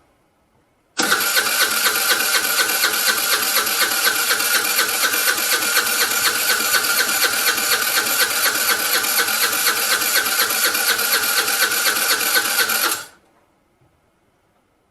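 Vespa scooter's electric starter cranking the engine without it catching. The cranking starts suddenly about a second in, runs steadily for about twelve seconds and then stops abruptly.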